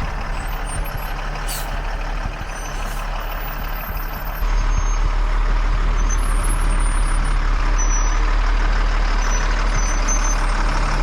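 1994 M1078 army truck's diesel engine running steadily under load as the truck drives up a snowy hill. The sound steps suddenly louder about four seconds in.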